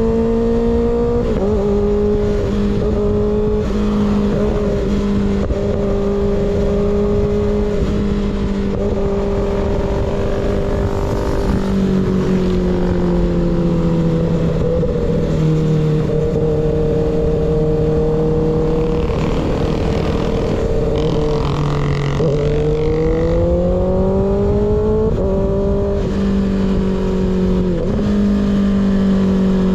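Kawasaki ZX6R inline-four engine running through an unbaffled M4 GP19 slip-on exhaust while riding. The engine pitch holds fairly steady, drops sharply several times, and climbs smoothly about two-thirds of the way through before settling again, over steady wind rush.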